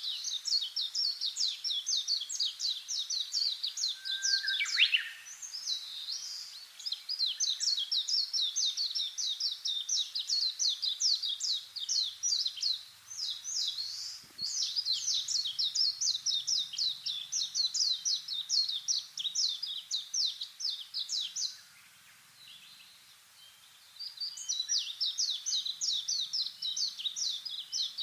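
A songbird giving long runs of rapid, sharp, high chirps, several a second, in stretches of several seconds with short pauses. About four seconds in there is one call that slides down in pitch.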